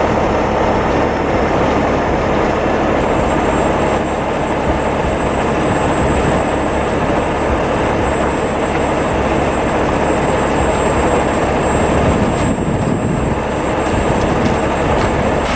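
Heavy diesel truck engine running steadily, a loud even rumble with a thin high whine over it.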